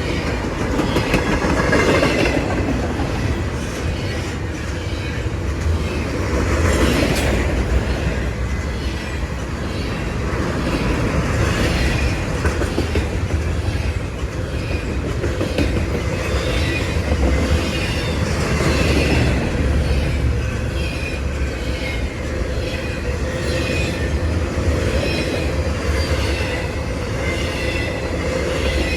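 CSX freight train's cars rolling past: a steady rumble and clatter of steel wheels on rail, with faint high wheel squeals coming and going.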